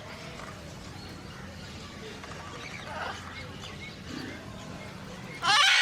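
Faint bird chirps and calls over a low steady background, then one short, loud, harsh call near the end.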